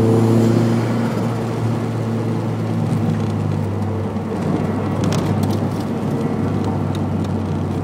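Nissan 180SX's turbocharged SR20DET four-cylinder running at an easy pace, heard from inside the cabin as a steady low drone mixed with tyre and road noise; the engine note drops back in the first second. A few short clicks about five seconds in.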